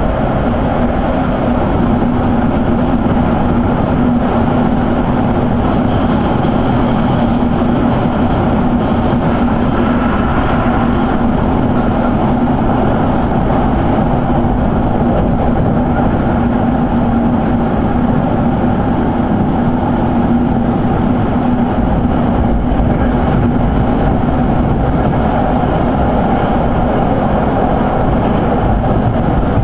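Electric train running at speed, heard inside the passenger car: a steady rumble of wheels on rail with a constant low motor hum.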